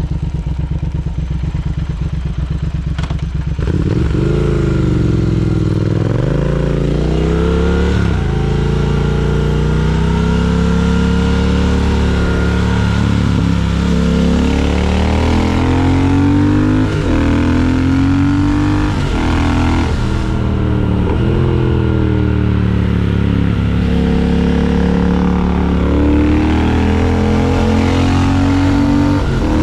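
Triumph Speed Twin 1200 parallel-twin engine, running steadily for the first few seconds, then revved so that its note climbs and drops back again and again.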